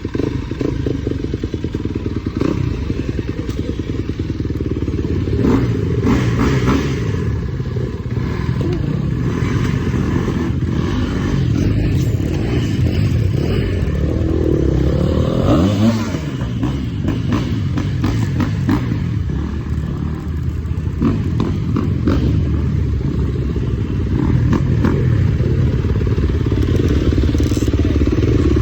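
A 250 cc motocross bike engine running, with a rev that rises and falls about fifteen seconds in, and scattered clattering knocks over the engine sound.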